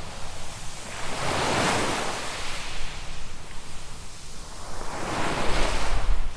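Small waves washing in on a sand beach, the surf swelling twice, about four seconds apart. Some low wind rumble on the microphone near the end.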